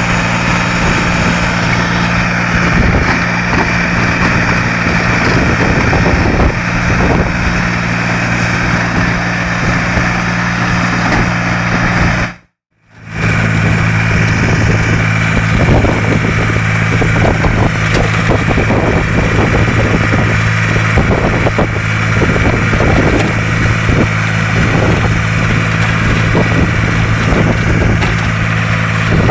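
BJR Samurai 60 compact articulated tractor running steadily with its rotovator working the soil. Wind buffets the microphone throughout. The sound cuts out for about half a second roughly twelve seconds in.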